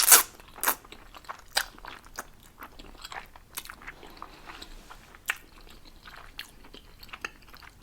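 A person chewing a mouthful of food close to the microphone: wet mouth clicks and smacks at uneven intervals, the loudest right at the start and just under a second in.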